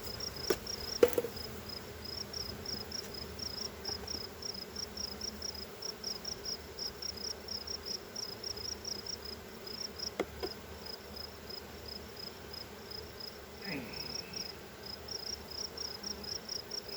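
Honeybees buzzing in a steady hum around an opened, smoked hive, with an insect chirping high and evenly about three to four times a second throughout. A few sharp knocks of hive equipment being handled sound near the start and about ten seconds in.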